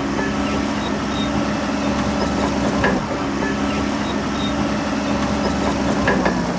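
Heavy diesel engine of earthmoving machinery running steadily, with two short sharp clanks, one about halfway and one near the end.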